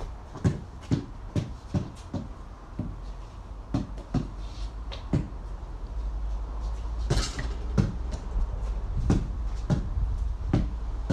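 Basketball being dribbled, bouncing on a hard surface in a run of thuds about two a second, with a brief noisier clatter about seven seconds in. A steady low rumble comes in about six seconds in.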